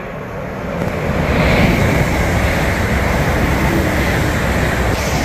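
A passenger train running through the station at speed. The rumble and rail noise build about a second in and stay loud as the carriages pass close by.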